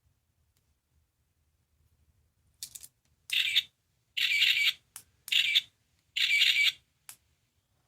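Sound-effect toy from a capsule machine playing a short clip: after a click come four short noisy bursts about a second apart, with small clicks between them.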